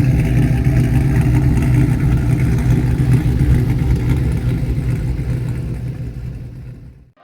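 Truck engine running steadily, a deep even engine note that fades out near the end.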